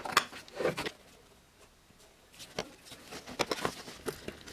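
Scattered clicks and light knocks of hands and tools handling parts in a car's engine bay: a cluster in the first second, a pause, then more from about two and a half seconds in.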